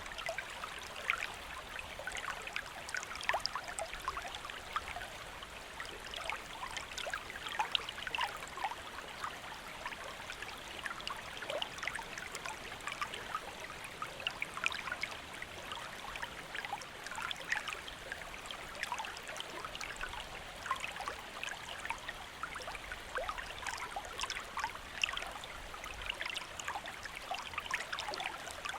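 Shallow stream flowing steadily over rocks: an even rush of water with many small splashes and trickles.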